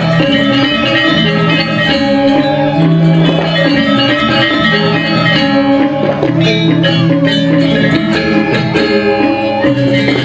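Balinese gamelan ensemble playing a tabuh kreasi: bronze metallophones ringing in layered, sustained pitched tones, with sharper struck strokes coming through from about six seconds in.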